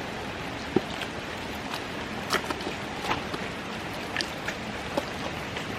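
Steady rushing ambience on a wet rainforest trail, like running water or wind, with scattered sharp taps and clicks, such as steps on rock or drips.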